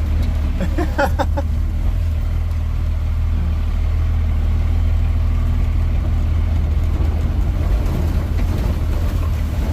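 Square-body pickup truck's engine running with a steady low rumble while the truck crawls over a rough, bumpy dirt trail; a short clatter of knocks about a second in.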